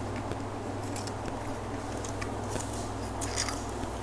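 Small scattered clicks and ticks of a disassembled LED bulb's plastic and board parts being handled, over a steady low hum.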